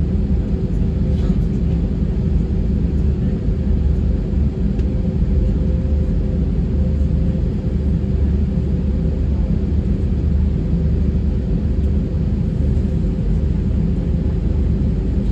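Steady low rumble inside the cabin of an Airbus A320 on the ground, its engines and air system running, with two faint steady hums above it.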